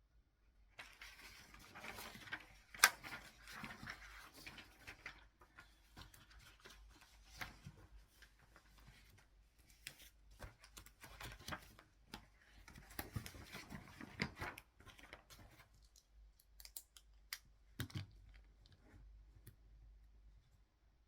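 Desk handling sounds: two spells of paper-like rustling and scraping, with scattered sharp clicks and taps between them and one loud click about three seconds in.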